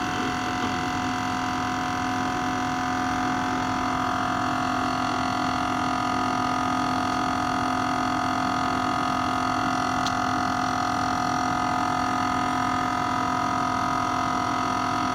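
12-volt air compressor running with a steady hum, slowly building pressure in its tank at around 30 psi.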